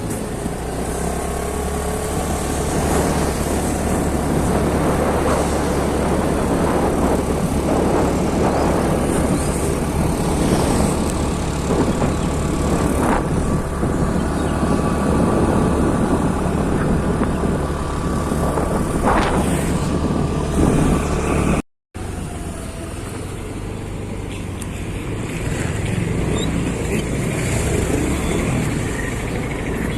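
Motorcycle running steadily at highway speed, with wind rushing over the rider's microphone. The sound cuts out completely for a moment about twenty-two seconds in.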